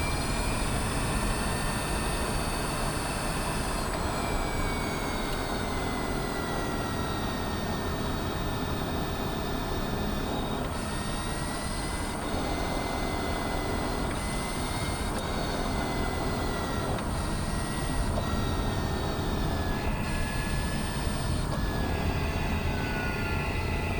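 Mazda MX-30 electric car driving: a steady low rumble with a thin whine that drifts in pitch and slides down near the end. The owner puts the rumble and rattling down to a driveline fault rather than the tyres.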